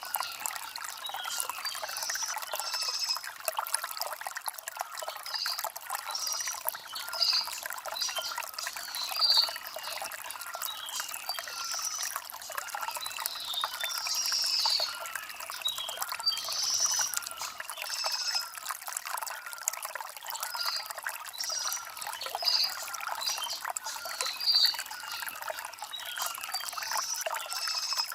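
Shallow stream trickling and burbling over stones, with short, high bird chirps repeating every second or so.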